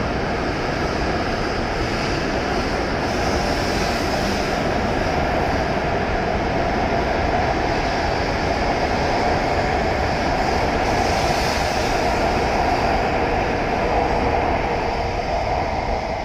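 E7 series Shinkansen accelerating out of the platform, its cars passing close by in a steady rush of running noise that grows slightly louder and begins to fade near the end as the last car clears.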